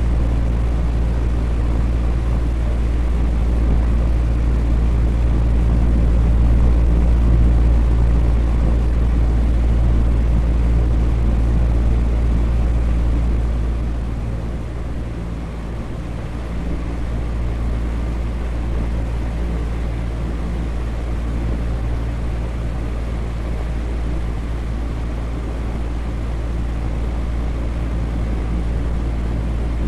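Electric fan running steadily: continuous air noise over a deep low rumble and a faint hum, dipping slightly in level about halfway through.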